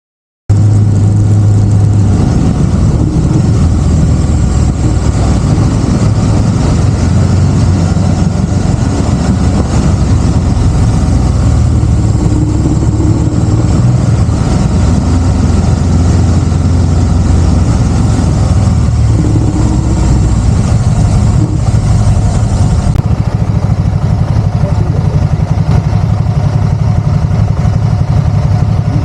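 Can-Am Spyder three-wheeled motorcycle's engine running steadily under way, with a constant low hum. It starts abruptly about half a second in.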